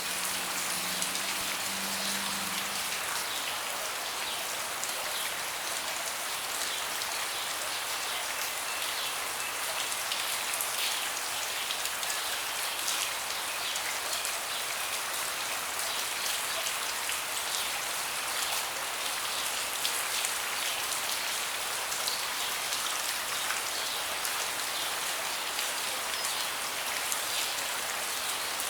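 Steady rain falling, with many separate drops striking close by, heard as fine crisp ticks over an even hiss.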